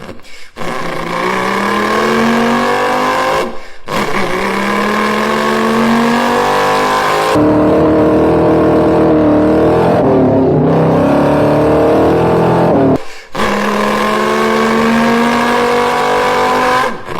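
Cross-plane V8 engine accelerating hard in several short pulls, its pitch climbing through each pull, with abrupt cuts between pulls. A steadier, deeper-sounding stretch of running fills the middle.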